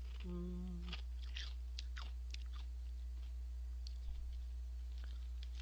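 A person chewing crunchy Gorae-bap crackers, a baked whale-shaped snack, with a short closed-mouth hum near the start and a quick run of crackly crunches that thin out to a few later ones.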